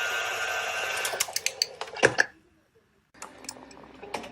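Krups FBB14500M bean-to-cup coffee machine running an empty test cycle after a seal repair: its motor runs steadily for about a second and a half, then a few clicks and a loud clunk, a short pause, and a quieter run with light clicks.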